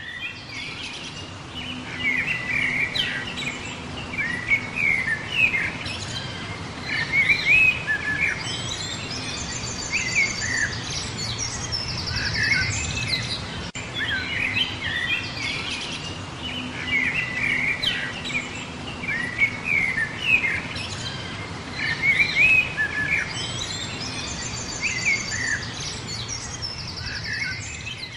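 Birds chirping and calling, short chirps with now and then a rapid high trill, over a steady low hum. The same stretch of birdsong repeats about every 13 seconds, as in a looped ambience track.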